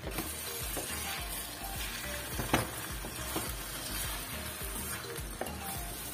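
Rice-and-onion dolma filling sizzling as it fries in a stainless steel pot, stirred with a wooden spoon that scrapes and clicks against the pot. One sharp knock stands out about two and a half seconds in.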